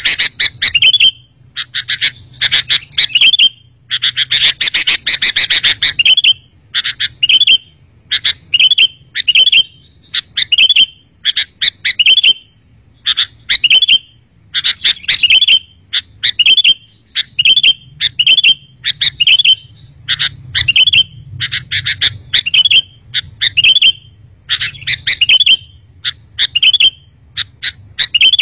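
Sooty-headed bulbul (kutilang) song: short, bubbly chirping phrases repeated about once a second, with a burst of harsher chatter a few seconds in. It is a loud lure recording of the kind played to call in bulbuls.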